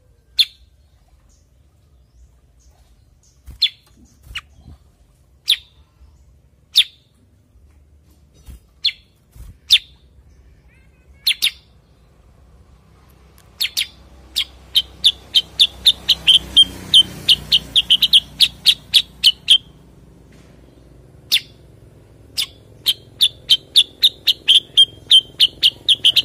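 Cucak kurincang (kutilang sutra) calling: single sharp, high chirps a second or two apart, then two fast rapid-fire runs of the same note, about four a second, in the second half.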